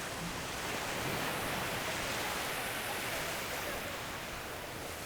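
Small waves washing onto a sandy beach: a steady hiss of surf that swells a little in the middle.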